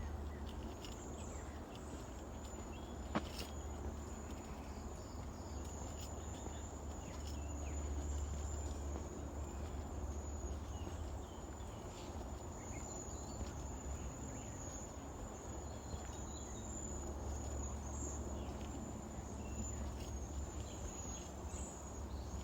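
Steady high-pitched drone of insects, with a low rumble underneath and a few faint clicks.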